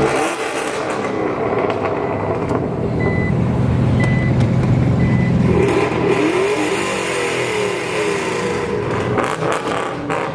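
Car engines running, with an engine note rising and falling partway through. Three short high beeps sound about a second apart near the middle.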